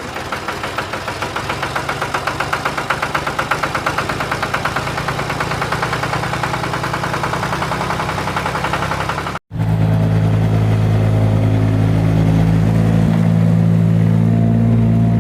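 Tractor engine running with a fast, even putter. About nine seconds in, the sound cuts abruptly to a steadier, deeper engine hum.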